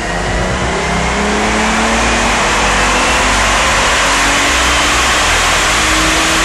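Twin-turbo Nissan 300ZX (Z32) V6 with Garrett GT2860RS turbos pulling on a chassis dyno, its revs climbing steadily under load.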